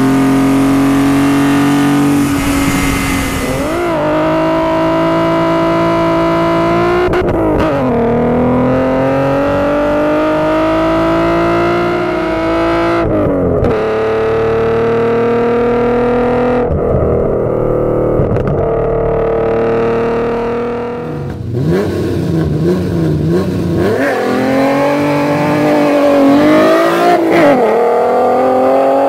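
BMW E30's M20 inline-six pulling hard through the gears. The engine note climbs steadily in pitch and drops sharply at each upshift, several times. After a break near the end it starts climbing again.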